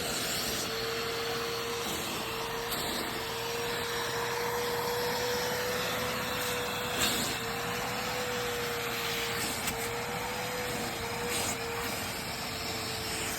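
Small vacuum cleaner running steadily while being used on a lamb's wool: a steady whine over the rush of air, with a few brief clicks.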